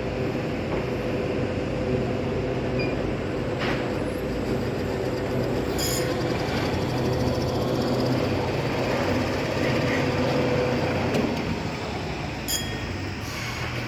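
Steady rumble of a moving vehicle, with a constant hum and a few faint clicks.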